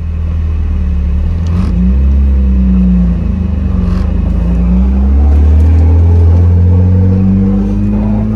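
BMW E36 convertible's engine heard from inside the cabin, pulling away and accelerating. The pitch rises, drops briefly at a gear change about three seconds in, then climbs again.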